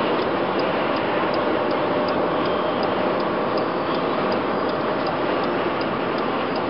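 Steady road and wind noise inside a car's cabin while driving through a snowstorm, with a light regular ticking about three times a second.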